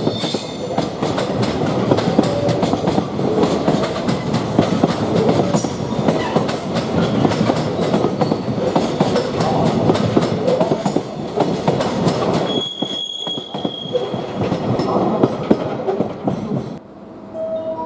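Freight train wagons rolling past on the Tokaido Line, with a dense rumble and a run of wheel clicks over the rail joints. A brief high wheel squeal comes about two-thirds of the way through, and the sound drops away just before the end.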